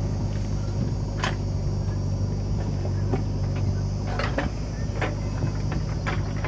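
Diesel engine of heavy machinery running steadily at a low, even speed, with a few sharp knocks or clanks over it, the clearest about a second in and a cluster of them in the second half.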